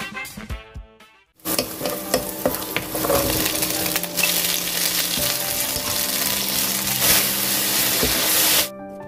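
Garlic scapes and sliced garlic sizzling loudly in hot oil as they are stir-fried, stirred with a wooden spatula. The sizzling starts about a second and a half in, after a few notes of background music, and cuts off sharply near the end.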